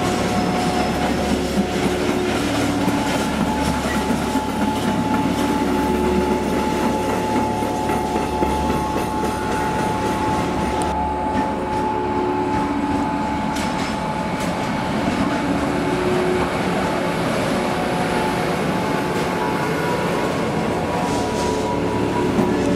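Freight trains rolling past on the line: a steady rumble of wagons on the rails, with wheel clatter and a few steady whining tones over it. About eleven seconds in the sound changes as the next train, an electric locomotive hauling container wagons, takes over.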